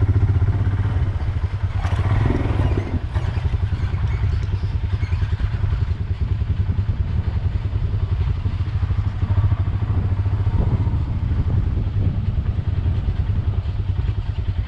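Royal Enfield Himalayan's single-cylinder engine running steadily, a low even pulsing throb, with some rattle around two to three seconds in.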